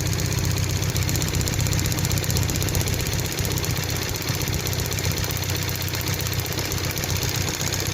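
1998 Toyota 4Runner's four-cylinder engine running steadily at idle with a misfire, caused by spark from a damaged plug wire arcing to the spark plug tube instead of reaching the plug.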